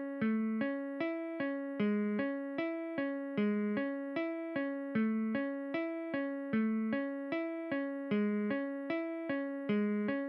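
Electric piano playing a short repeating pattern of single notes, about three a second, each note struck and decaying.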